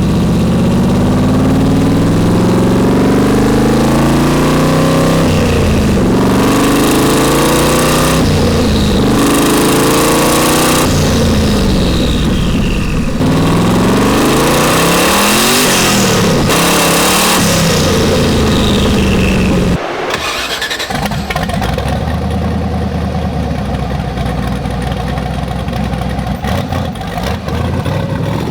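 Twin-turbocharged 5.3-litre iron-block LS V8 in a Nissan 240SX accelerating hard through several gears, its pitch climbing and dropping at each shift, with a falling whistle after some shifts. About twenty seconds in it cuts to a quieter, steadier engine note.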